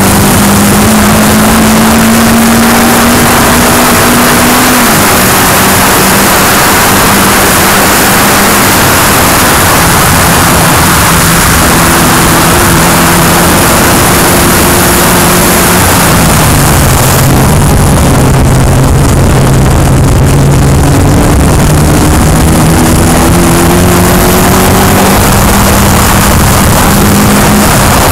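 Open-cockpit track car's engine under load, heard from onboard. The revs climb, then drop about five seconds in and again around sixteen seconds, then climb steadily for about ten seconds, over a loud rush of wind across the microphone.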